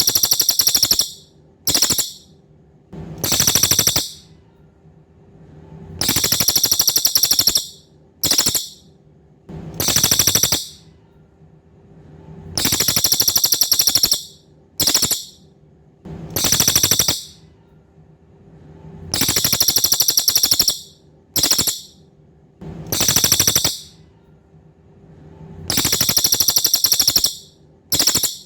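Cililin bird's song as a masteran recording: very high, rapid buzzy trills in bursts of one to two seconds, a long trill, a short one and another long one, the group repeating about every six and a half seconds. A faint low hum runs underneath.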